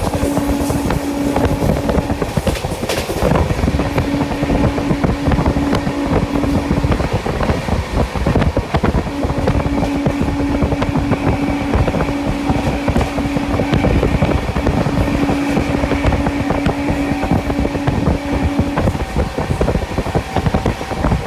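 Express passenger train running at speed, heard from inside the coach: a dense rattle and clatter of wheels on the track with rushing air. A steady low hum drops out and comes back several times.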